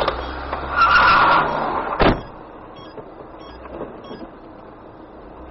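Car road noise with a short squeal about a second in, then one sharp bang just after two seconds, typical of a dashcam recording of a collision. After the bang only quieter road noise remains.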